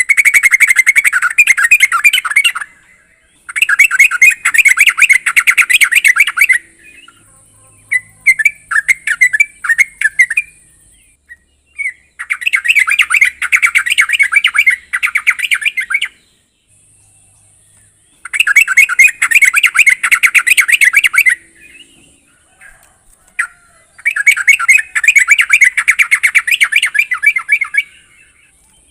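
Yellow-vented bulbul (trucuk) singing: bursts of rapid, bubbly chattering notes lasting about two to four seconds, repeated after short pauses.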